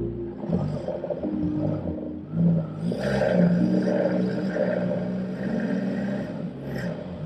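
Off-road 4x4's engine running under load, its pitch shifting up and down, with a short surge about two and a half seconds in.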